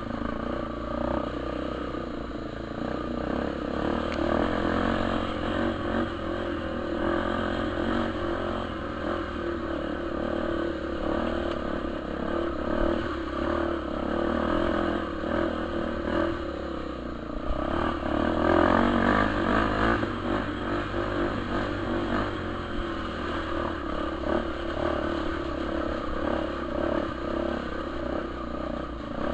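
Single-cylinder trail motorcycle engine running under changing throttle as it rides a muddy trail, revving harder about two-thirds of the way through.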